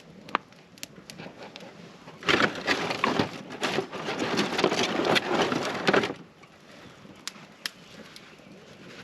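Dry wood being snapped and crushed by hand: a dense run of cracking and splintering for about four seconds, starting a couple of seconds in and stopping abruptly, with scattered single cracks before and after.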